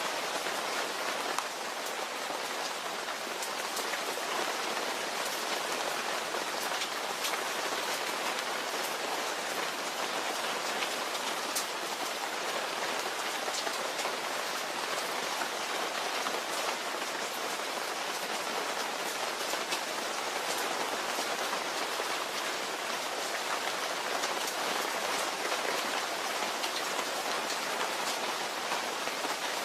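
Steady rain falling, a dense hiss with many individual drops pattering on a surface.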